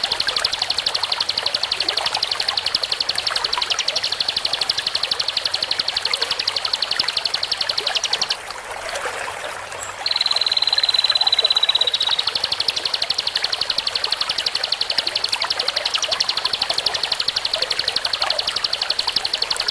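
A masteran song-training recording for cage birds: a high, very fast buzzing trill that runs on steadily. Around the middle it breaks off briefly, then gives one clear, slightly falling whistle of about two seconds, and the trill takes up again.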